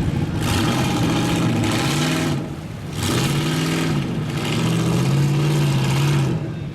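Mud-bogging truck engine revving hard in two long bursts, its pitch rising and falling, with a loud hiss over each burst and a short dip between them.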